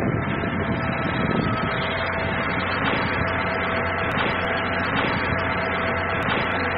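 Sound effect of a train running steadily: an even, continuous running noise with a few steady tones through it.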